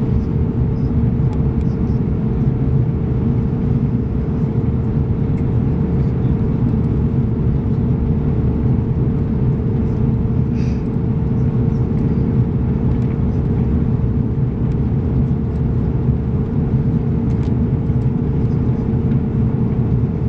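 Airbus A340-300 cabin noise during departure, heard from a window seat: the four CFM56 engines and the airflow make a steady, loud low rumble with an even hum on top.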